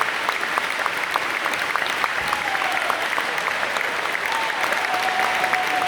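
Concert audience applauding steadily, dense clapping after an acoustic song, with a faint long held note over it in the second half.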